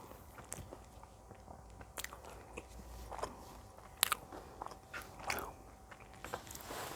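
Close-miked eating: biting and chewing food with scattered sharp crunches and mouth clicks, the loudest about four seconds in.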